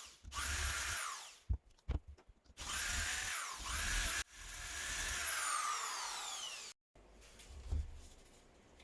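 Electric drill run in four short bursts, each spinning up and winding down, the last one coasting down slowly; a few sharp knocks come between the first two bursts.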